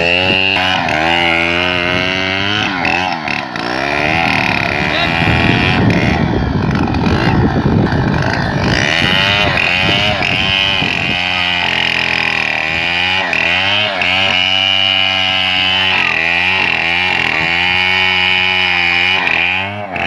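Two-stroke chainsaw cutting into the trunk of a bangkal tree to fell it, the engine's pitch rising and falling as it revs and bogs down in the cut, with a rougher, heavier stretch about a third of the way in.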